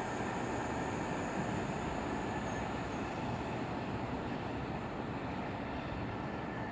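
Passenger train rolling past on the track: a steady rumble and hiss of wheels on rail, easing off slowly.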